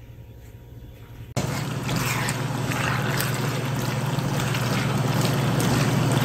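Cheese dak-galbi with thick noodles sizzling in a frying pan while it is stirred with a wooden spatula. The sizzling starts suddenly about a second and a half in and carries on, full of fine crackles over a low steady hum.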